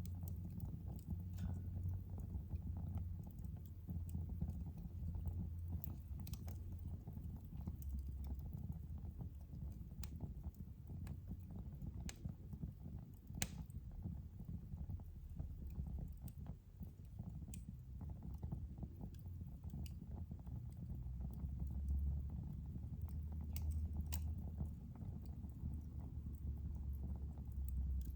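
Wood fire burning in a fireplace: a steady low rumble of flames with scattered sharp crackles and pops, one louder pop about halfway through.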